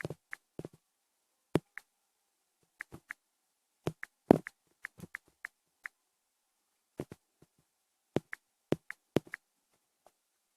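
A scattered series of short, sharp clicks and taps at irregular intervals, some in quick pairs or threes, a few with a brief high ring. They stop about a second before the end.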